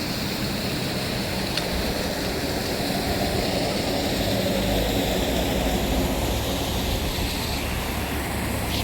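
Steady rushing noise of a high river with wind on the microphone, and a low rumble swelling through the middle.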